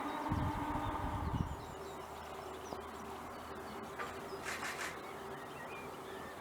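Birds calling in outdoor wetland ambience: faint high chirps throughout, and a short scratchy call of several quick pulses about four and a half seconds in. A low rumble fills the first second and a half.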